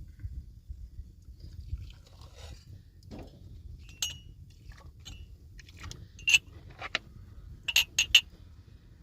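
Hard objects knocking together in a string of sharp, ringing clinks, about six in all, the loudest three in quick succession near the end, over a low steady rumble.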